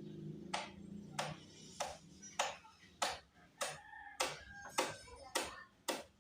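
Ten sharp clicks in an even rhythm, about one every 0.6 seconds, each with a short fading tail.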